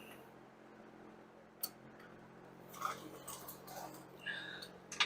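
Irregular light clicks and clinks of hand tools and metal parts being handled, with a sharp single click about a second and a half in and a louder one near the end, over a faint steady hum.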